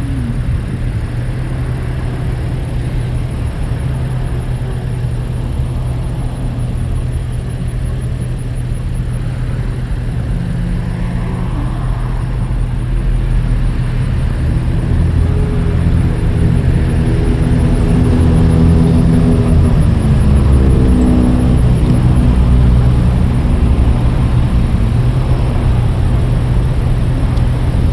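Motor vehicle engine running with a steady low rumble, growing louder about halfway through; its tone drops in pitch about two-thirds of the way in.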